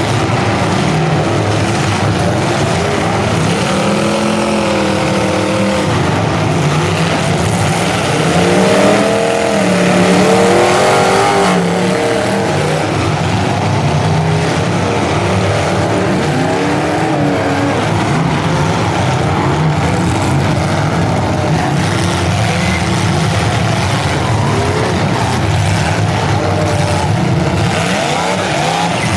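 Several full-size demolition derby cars' engines running together, revving up and down, with the revving strongest from about four to twelve seconds in.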